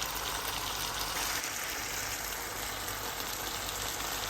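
Chicken, peppers and onions in sweet chilli sauce sizzling steadily in a hot pan of oil.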